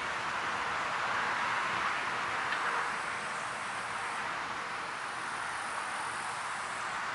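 Steady countryside pond ambience: an even rushing hiss of breeze and water, with a faint high insect trill.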